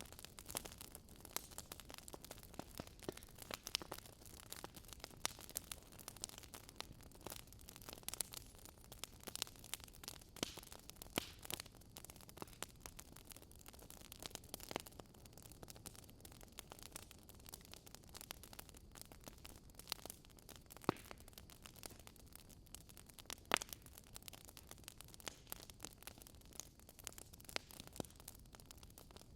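Wood fire in a fireplace crackling: irregular sharp pops and snaps, a few louder than the rest, over a faint steady hiss.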